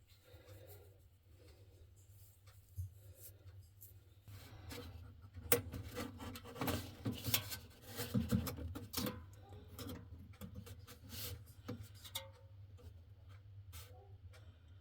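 Faint rubbing, scraping and small ticks of a copper wire being handled and fitted onto a refrigerator's defrost line, starting about four seconds in, with a few sharper clicks in the middle.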